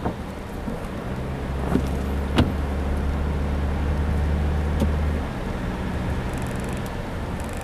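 Vehicle engine and road noise, a steady low hum that builds for a few seconds and eases off about five seconds in, with a few short clicks.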